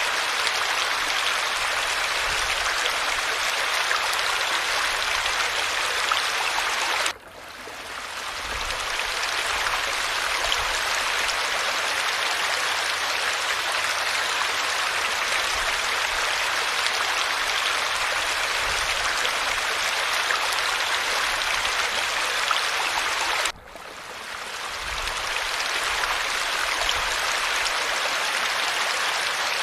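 Steady rush of falling water. It cuts out suddenly twice, about a third of the way in and again near the end, and each time fades back in over a couple of seconds.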